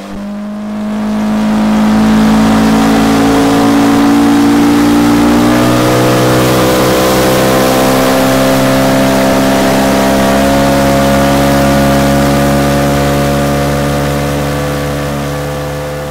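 Boat's outboard motor running steadily at speed, loud, its pitch wandering slowly up and down, over a constant rushing hiss.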